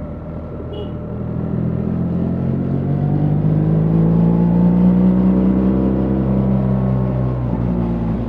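BMW R 1300 GS boxer-twin engine accelerating, its pitch and loudness rising steadily for a few seconds, then holding before a brief dip near the end.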